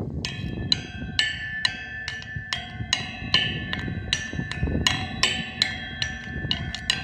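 Steel tongue drum played by hand: a steady run of struck notes, about two to three a second, each ringing on, with a low rumble underneath.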